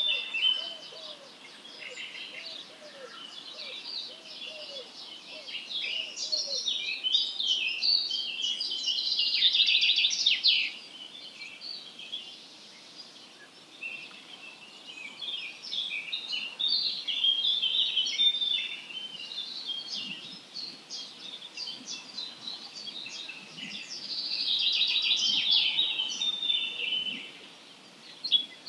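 Dawn chorus of songbirds: many overlapping high chirps, trills and warbles, growing louder in swells. A soft, low hooked call repeats quickly underneath during the first several seconds.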